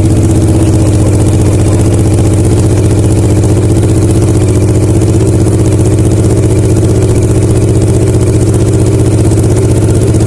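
Kawasaki ER-6n's parallel-twin engine idling steadily through a Dominator GP1 aftermarket slip-on exhaust, very loud, with an even, unchanging beat and no revs.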